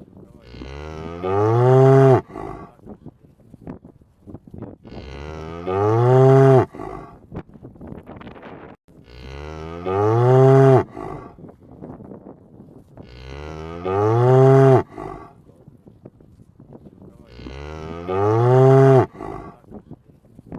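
A cow mooing five times at an even pace, about every four seconds. Each moo lasts under two seconds, rising in pitch and then holding before it stops.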